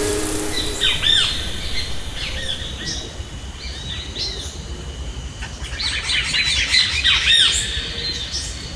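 Several wild birds chirping, quick rising-and-falling calls in clusters, busiest about a second in and again near the end, over a steady high whine.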